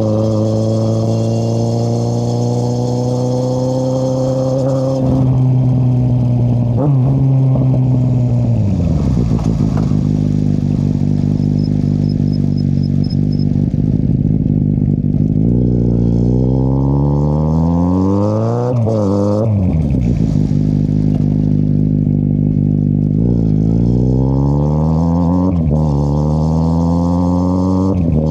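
2013 Kawasaki Z800's inline-four running through an Akrapovic exhaust with the dB killer removed, heard while riding. The revs hold, drop away steeply about a third of the way in, then climb under throttle several times, with quick sharp swings in pitch in the middle and again near the end.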